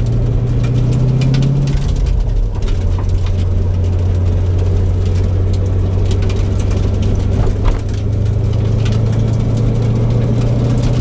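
Ford 5.0 V8 of a 1989 Mustang GT running at a steady, moderate engine speed. Its pitch drops about two seconds in and climbs a little near eight seconds.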